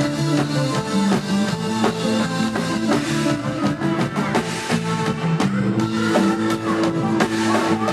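Live band music with no singing: guitar and bass notes over a drum kit beat.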